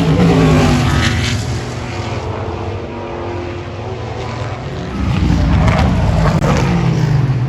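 Race cars passing at speed, their engine notes falling in pitch as one goes by, then a louder car arriving about five seconds in and passing in turn.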